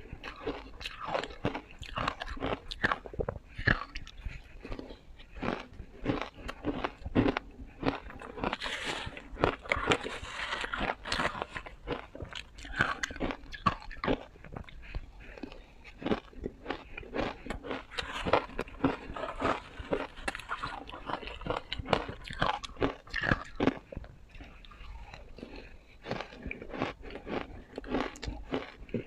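Ice being bitten and chewed close to the microphone: a steady run of sharp, crisp crunches, several a second.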